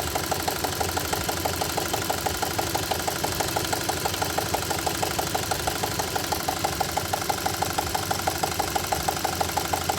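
Two-litre car engine idling with a rapid, even knock in time with the engine; the cause of the knock is unknown to the owner.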